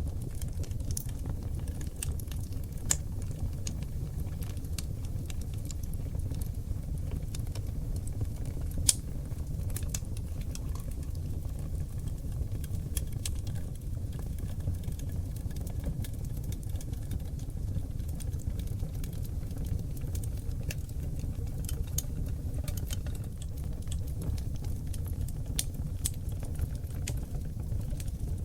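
Oak log fire burning in a fireplace: a steady low rumble of flames under frequent irregular crackles and sharp pops from the burning wood, the loudest pop about nine seconds in.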